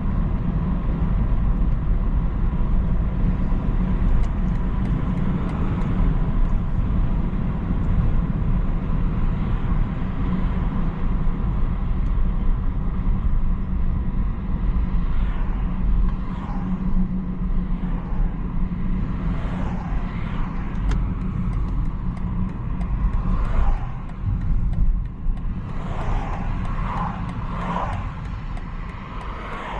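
BMW 330i's turbocharged four-cylinder running while the car drives, a steady low road-and-engine rumble. In the second half there are short, wavering squeaks, bunched together near the end.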